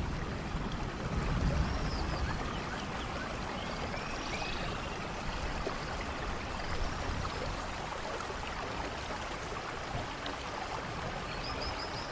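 Steady rushing water noise from a rain-and-stream ambience, with a faint low rumble about a second and a half in and a few faint high chirps.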